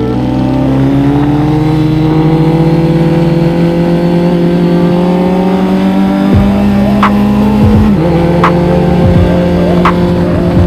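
Kawasaki Z900 inline-four engine pulling under acceleration, its pitch climbing steadily. About three-quarters of the way through the pitch drops sharply with an upshift, then climbs again. A few sharp ticks come in the second half.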